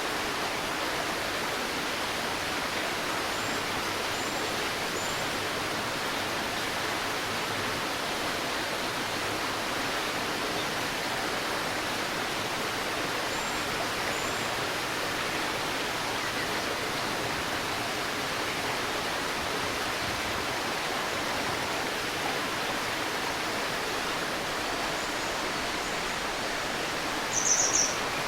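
A river babbling steadily over stones, with faint high bird chirps a few times and one louder short bird call near the end.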